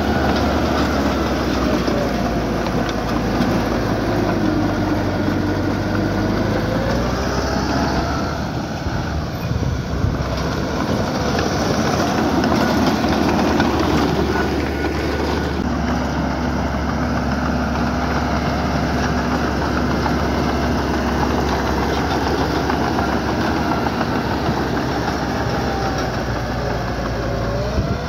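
Small crawler bulldozer's diesel engine working under load, its note shifting a couple of times, with squealing and grinding from its steel tracks.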